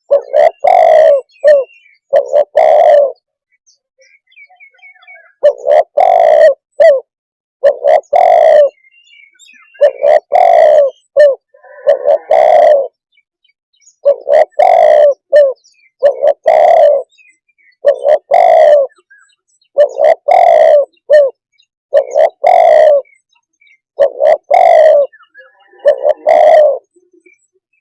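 Spotted dove cooing: short phrases of a few coos each, repeated about every two seconds, with a brief pause about four seconds in.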